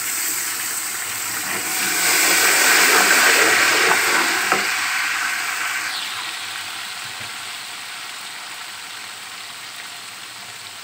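Garlic, green chili and ginger paste frying in hot oil in a pot: sizzling that swells about two seconds in, with a couple of spoon clicks against the pot, then dies down gradually as it is stirred.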